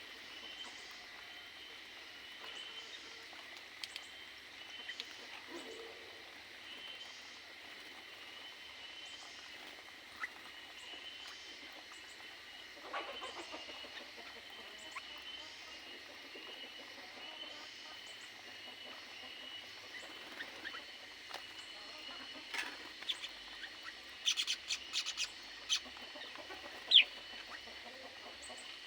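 Aviary birds calling over a steady high background chatter, with a burst of short, sharp chirps near the end.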